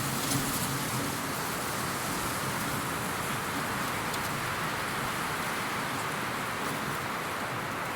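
Steady, even rushing hiss of a nature soundscape, rain-like, holding at the same level with no distinct calls or events.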